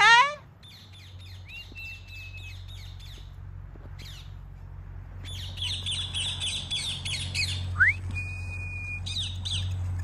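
Birds calling: a loud squawk right at the start, then scattered high chirps and a few held whistled notes, one of them rising, thickening into dense chattering of many birds from about five seconds in.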